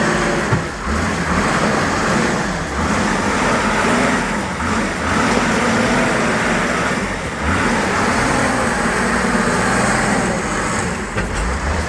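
Engine of a heavily loaded log-hauling vehicle running steadily as it drives, its hum wavering slightly, with the noise of driving over it.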